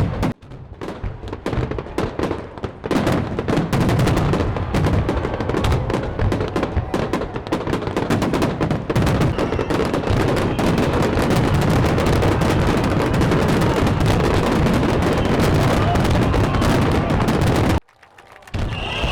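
Fireworks exploding in a rapid barrage: a few separate bangs at first, then continuous booming and crackling, cut off suddenly near the end.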